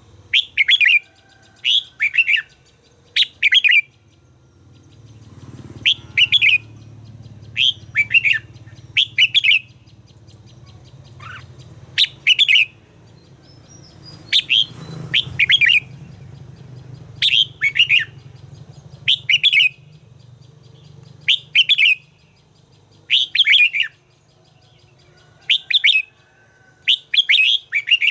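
Red-whiskered bulbul singing: short, loud whistled phrases repeated every second or two, often two or three in quick succession, over a faint low hum.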